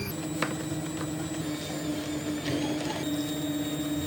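A steady electric machine hum with a few light clicks.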